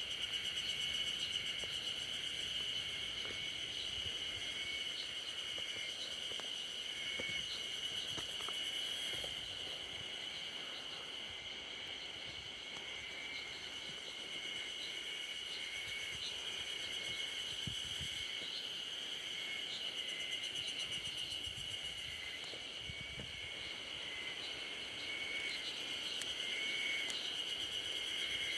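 Outdoor insect chorus: a steady high-pitched drone with fainter rhythmic pulsing above it, and short chirps repeating just below it.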